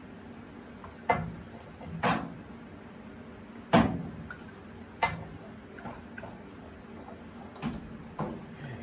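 About six sharp knocks and clanks at irregular intervals over a faint steady hum: the old water line and its fittings being handled as it is taken off a hot water heater.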